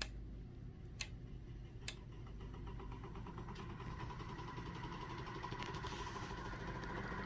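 A few sharp clicks in the first two seconds. Then the small electric fan motor runs with a steady hum and faint whine that slowly grows louder as it turns the dishwasher propeller.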